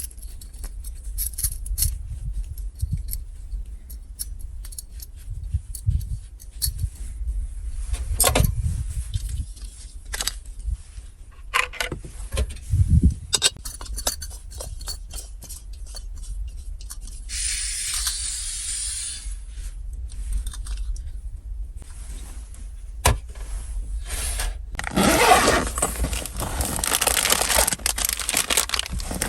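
Low rumble of strong wind against a parked car, with clicks and small metallic clinks of things being handled inside. There is a short hiss about two-thirds of the way in, and a louder steady rushing noise over the last few seconds.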